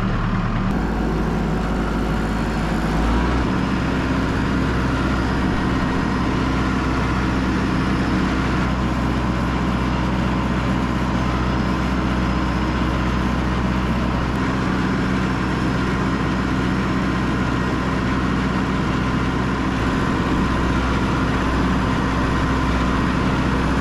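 Diesel tractor engine running steadily while the tractor drives along a gravel road; its low note shifts a little about three seconds in.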